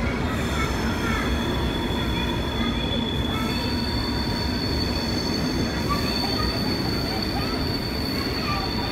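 Vintage train rolling through a station over a steady rumble, its wheels squealing in high sustained tones. A second, higher squeal tone joins about three and a half seconds in and holds.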